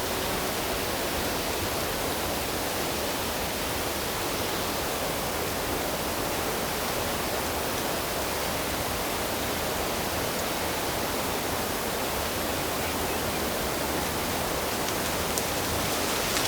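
Steady rush of fast-flowing water, an even hiss with no change in level.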